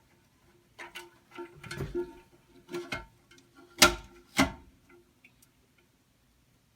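Clicks and knocks of Delta Flush IQ toilet parts being handled, with two louder knocks close together about four seconds in.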